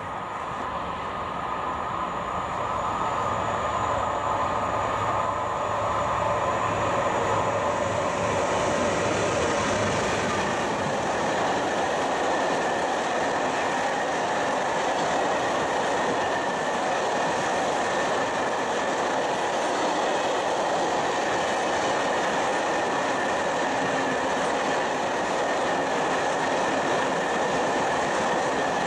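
Freight train of empty log wagons passing. It grows louder over the first few seconds as it approaches, then gives a steady rumble and clatter of wagon wheels on the rails, with a faint steady high whine.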